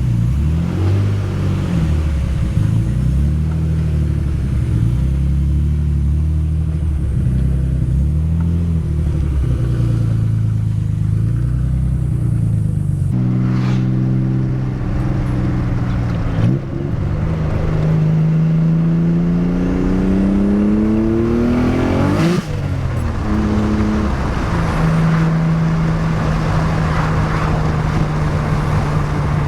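Nissan 300ZX twin-turbo V6 running at low revs as the car rolls off, then revving up smoothly for about five seconds under acceleration, dropping suddenly about two-thirds of the way through as the driver shifts gear, and settling to a steady cruising note.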